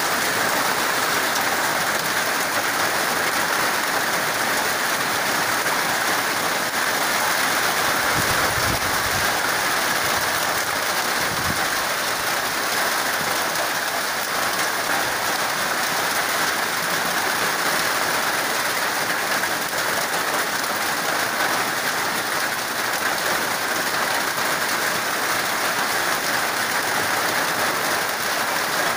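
Steady rain falling on a corrugated sheet roof overhead and on the wet ground and foliage, with two brief low rumbles about eight and eleven seconds in.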